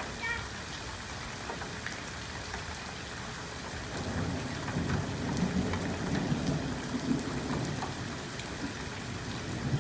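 Steady rain falling, an even hiss, with a low rumble swelling from about four seconds in and fading by about eight seconds.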